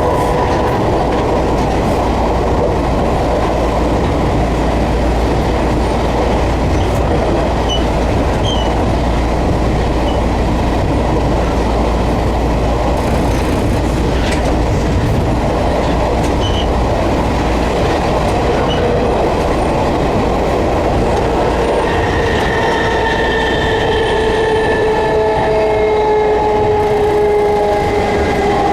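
Running noise inside an Enshu Railway Type 30 electric train car: a steady loud rumble of wheels on rail and motors. About three quarters of the way through, a whine of several tones falls slowly in pitch as the train slows.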